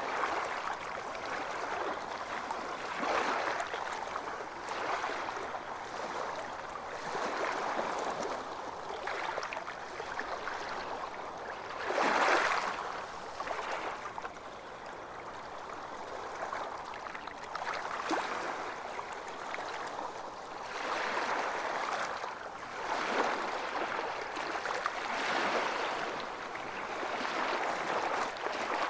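Ocean waves washing onto a beach: a steady hiss of surf that swells and falls every few seconds, with one louder wave breaking about twelve seconds in.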